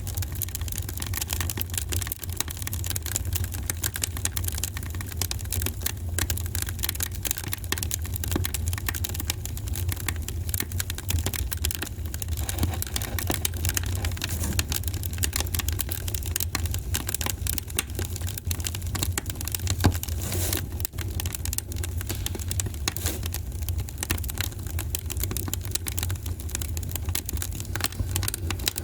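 Wood fire crackling in a fireplace: dense, irregular small pops and snaps over a steady low rumble, with one sharper pop about two-thirds of the way through.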